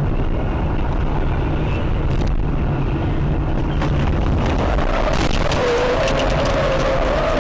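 Car engine and road noise heard from inside a moving car, steady throughout. Over the second half a wavering tone comes in, along with scattered sharp clicks.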